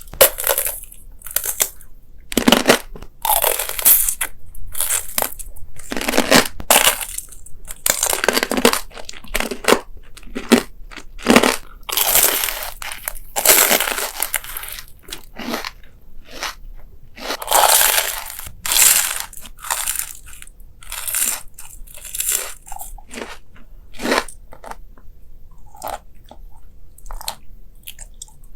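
A person chewing crunchy food close to the microphone, with irregular loud crunches of biting and chewing that come thick and fast at first and thin out near the end.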